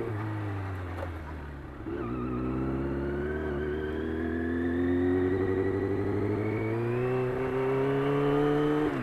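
Motorcycle engine accelerating under load. It changes up a gear about two seconds in, then rises steadily in pitch for several seconds before changing up again near the end.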